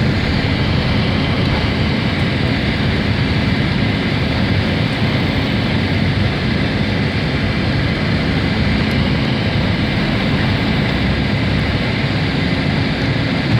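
Boeing 767-300ER jet engines at takeoff power heard from inside the passenger cabin: a loud, steady noise of engines and airflow, with a low rumble underneath.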